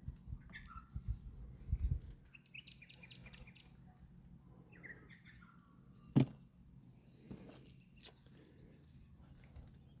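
Faint bird chirps in several short bursts, with a few low thuds in the first two seconds and one sharp click about six seconds in.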